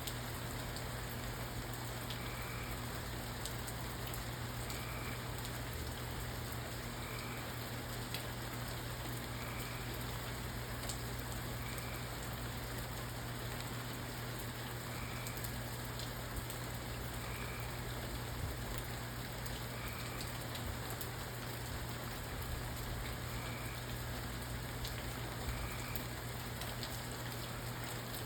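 Steady rain falling, with scattered drops ticking and a steady low hum underneath. A faint short high note repeats about every two and a half seconds.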